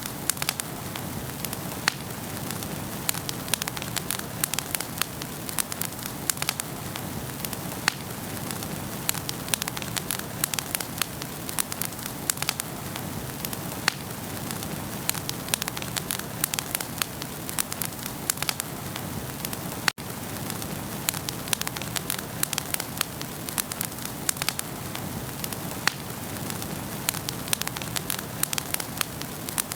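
Wood fire burning in a fireplace: a steady hiss with frequent sharp crackles and pops at irregular intervals, and a momentary dropout about two-thirds of the way through.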